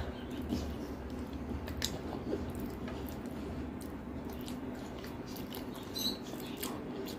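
Close-miked chewing and wet mouth sounds of a person eating a piece of spicy chicken curry by hand, with scattered small clicks and smacks over a low steady hum.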